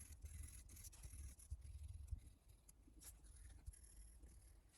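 Faint scribbling of a colouring pen on paper, quick irregular back-and-forth strokes close to near silence.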